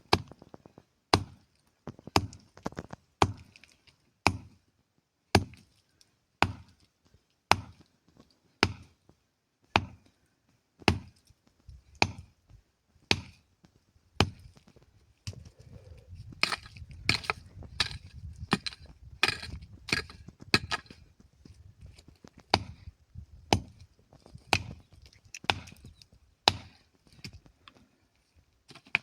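Wood being chopped with steady blows, about one a second. In the middle the blows come faster over a low rumble, with cracking and splintering.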